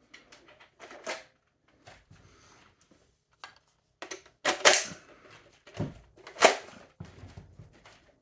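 A few sharp plastic clacks and snaps from a toy Nerf crossbow being handled, the two loudest about four and a half and six and a half seconds in.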